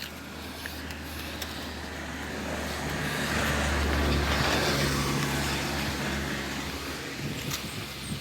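A motor vehicle passing by on a road: engine and tyre noise builds up, is loudest about four seconds in, then fades away.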